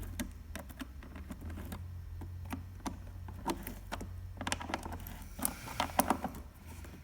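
Irregular small clicks and taps of an 8mm wrench working the hose clamp on the air intake, over a steady low hum. The clicks come thicker about four and a half to six seconds in.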